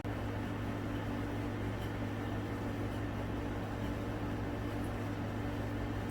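A steady mechanical hum with an even hiss over it, from a fan or appliance motor running in a kitchen.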